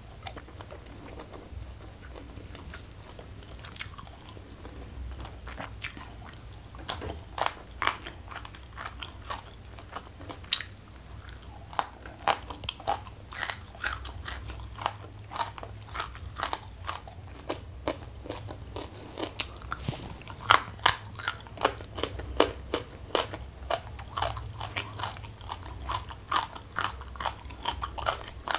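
Close-miked chewing of food, a mouthful crunched with many sharp, wet clicks, sparse at first and coming quickly and steadily after a few seconds.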